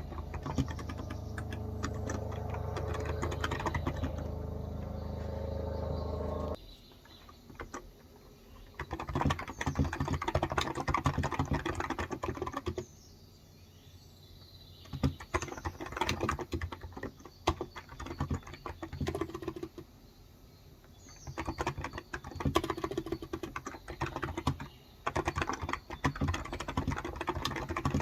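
Typing on a Cox Endeavor tenkeyless keyboard with 35 g electro-capacitive switches, in quick bursts of key clicks broken by short pauses. A steady low hum runs under the typing for the first six seconds or so, then cuts off suddenly.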